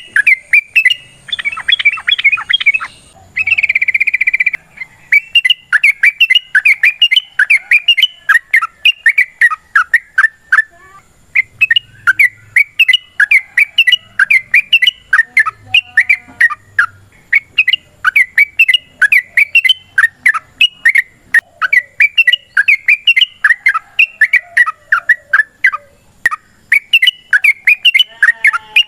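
Yellow-vented bulbul (trucukan) singing a long, rapid chattering song of quick bubbly notes repeated almost without pause, with a short break near the middle. This is the excited 'fighting' song used as a lure to make other bulbuls answer.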